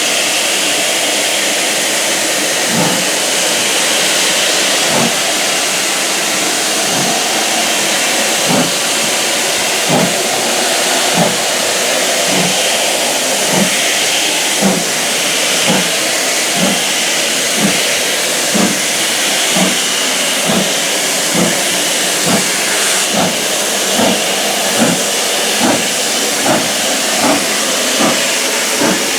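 GWR Castle class steam locomotive 4079 Pendennis Castle, a four-cylinder 4-6-0, getting under way: a steady hiss of steam with exhaust beats that come slowly at first and quicken toward the end as it gathers speed.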